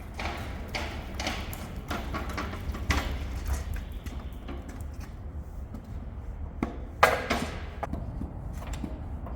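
Irregular knocks and clanks of steel pieces being handled, with a steady low hum underneath. The sharpest and loudest clank comes about seven seconds in.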